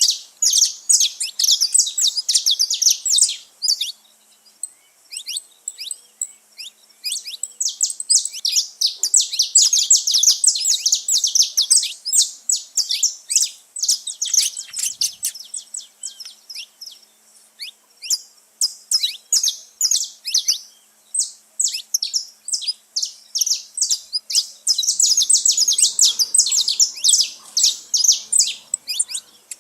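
Several saffron finches chirping and singing together, a dense run of rapid, high, overlapping notes that thins out briefly twice.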